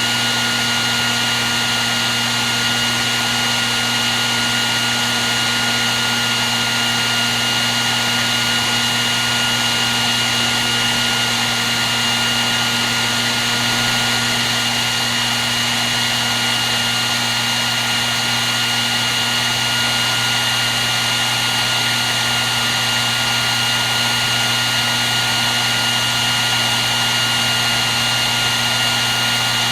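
Hair dryer running steadily: a constant rush of blown air with a steady motor whine in it, never changing.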